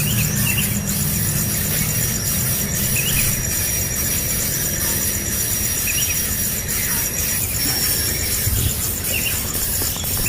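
Steady high-pitched insect trill with a fast even pulse, joined every few seconds by short bird chirps.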